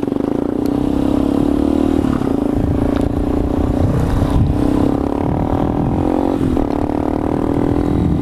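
Motorcycle engine running at fairly steady revs while riding, with wind rumbling on the microphone; the engine note dips briefly twice.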